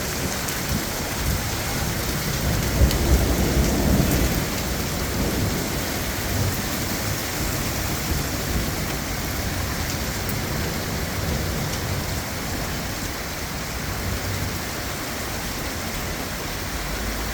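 Heavy rain pouring steadily, with a low roll of thunder that swells about two to four seconds in and then fades back under the rain.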